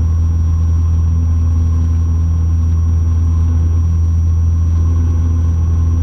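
Cessna 172's single piston engine and propeller droning steadily in flight, a constant low hum heard in the cockpit.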